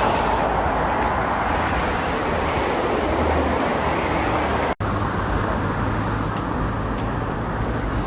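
Steady road traffic noise from cars on a busy main road, with a brief break in the sound about five seconds in.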